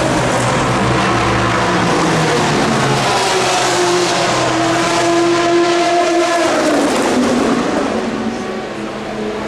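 Race car engines running at speed past the track; one car's engine note climbs as it accelerates, then drops sharply and fades as it goes by about two-thirds of the way through.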